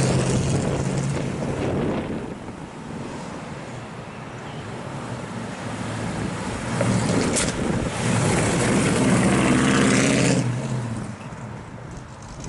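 1971 Ford Mustang's engine and exhaust as the car drives around: loud at first, fading as it pulls away, then swelling as it comes back and drives by between about eight and ten seconds in, and dropping away again near the end.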